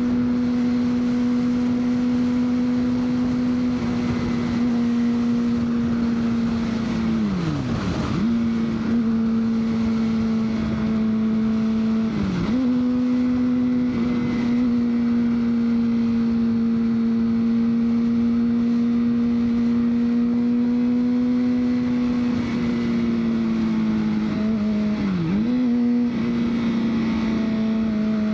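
2003 Honda CBR600RR's inline-four engine running at a steady, even pitch under way, its note dipping sharply and coming straight back three times.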